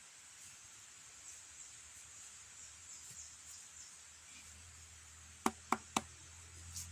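Three quick, sharp knocks in a row over a faint steady high hiss.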